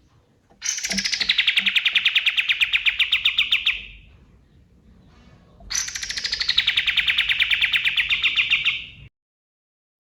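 Kapas tembak songbird singing two long, rapid, fast-pulsed trills. Each one starts high, drops quickly and then runs on at a steady pitch for about three seconds, with a short pause between them.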